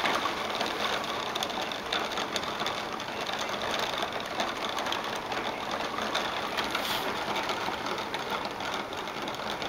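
Thunderstorm rain falling steadily: a dense, even patter of drops with no thunder.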